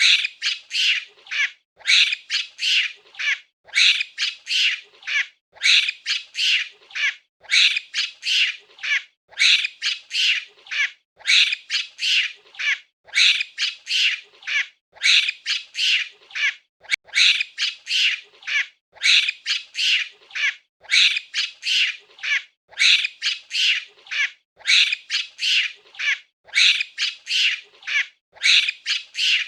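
Monkey calling: short, high-pitched screeching calls in quick clusters of three or four, the clusters repeating evenly about every two seconds.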